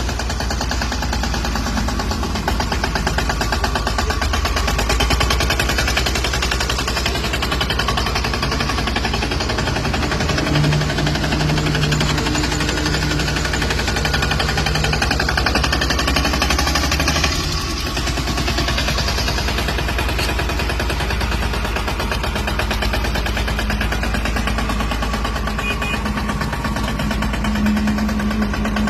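Single-cylinder engine of a 20 hp Indo Farm mini tractor running, with a rapid, even firing beat.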